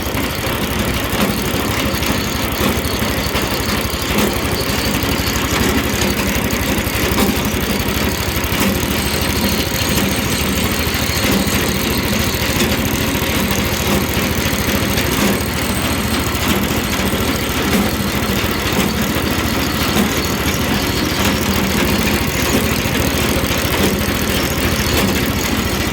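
5-horsepower small engine running steadily, driving a blower through a worn V-belt.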